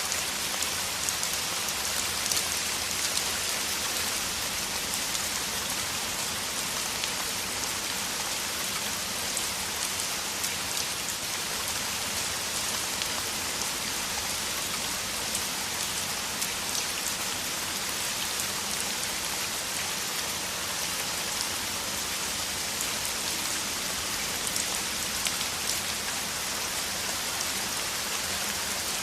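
Heavy rain falling in a steady downpour: an even hiss with a fine patter of drops, holding level throughout.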